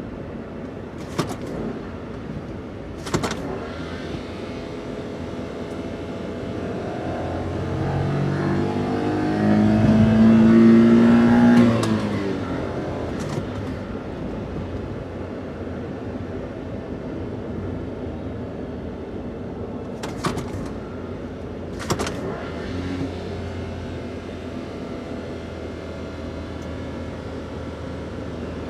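Daihatsu Hijet kei van's 660 cc three-cylinder engine with stock intake and exhaust, running on the road: the revs climb under acceleration from about seven seconds in, drop off at about twelve seconds, then settle to a steady cruise. A few short sharp knocks are heard along the way.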